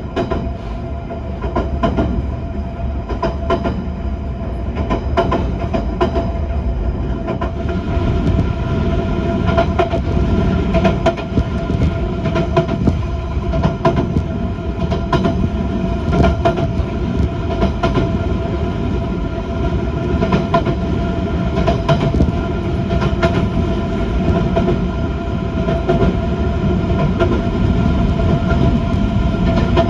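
Passenger train running along the track, heard from inside the car: a steady low rumble with a humming whine and short wheel clicks over rail joints throughout.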